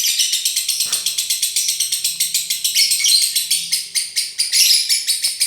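Lovebird giving a continuous, rapid high-pitched chattering trill of about nine notes a second, the fast unbroken chatter that keepers call 'konslet'.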